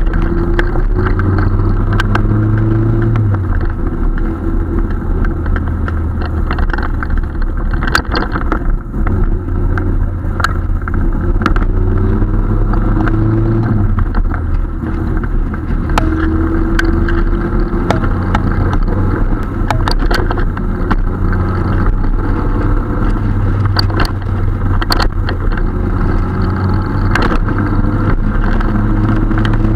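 Marlin Roadster's engine and exhaust on the move, heard from the open cockpit. The revs climb and drop back a few times, with scattered sharp clicks.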